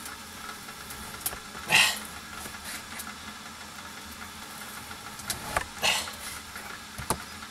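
Small handling noises: a few light knocks and clicks, with two short rustling swishes about two seconds in and again near six seconds.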